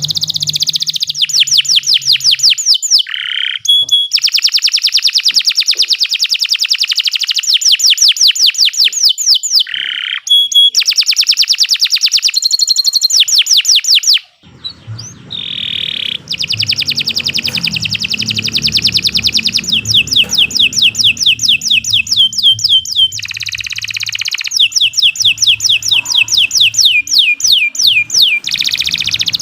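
Domestic canary singing a long, continuous song of rapid trills, each a run of quickly repeated sweeping notes, with only a brief pause about halfway through.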